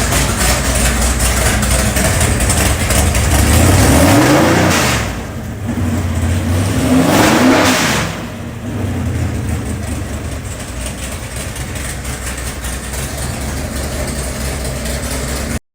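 582-cubic-inch big-block Chevy V8 running, revved up twice, about four and seven seconds in, then settling back to a steady lower speed; the sound cuts off suddenly near the end.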